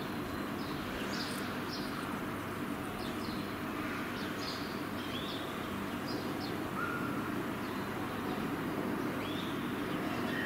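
Birds chirping: many short, high chirps and brief upward or downward glides, scattered and irregular, over a steady background hiss.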